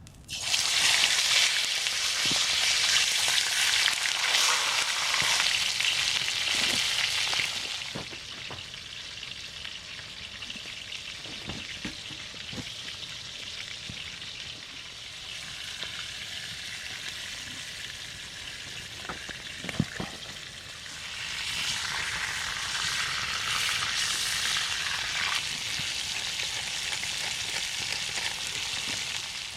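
Food frying in a hot pan over a campfire. A loud sizzle starts suddenly as the food goes in, settles to a softer sizzle after about seven seconds, and rises again about two-thirds of the way through. Occasional light knocks of a utensil on the pan are heard, with one sharper knock partway through.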